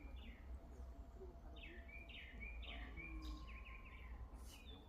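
A songbird singing: a run of separate notes, each sliding down in pitch, about half a second apart, followed by quicker, shorter notes. A steady low rumble lies under it.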